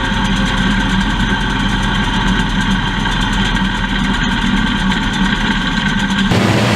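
Race car engine idling steadily, with an abrupt change in the sound about six seconds in.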